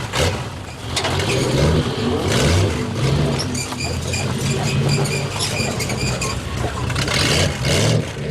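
Car engines running, a low uneven rumble with a few brief louder swells.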